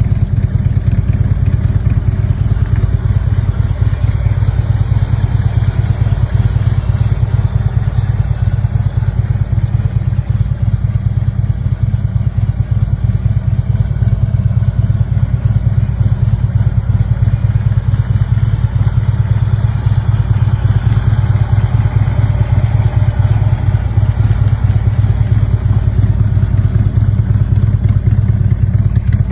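Harley-Davidson V-twin engine of a 2016 Tri Glide Ultra trike running steadily at idle with a low, even rumble.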